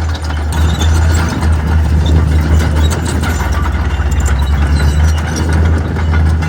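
Heavy diesel engine of a construction machine running steadily, a deep rumble with scattered sharp clicks and rattles over it.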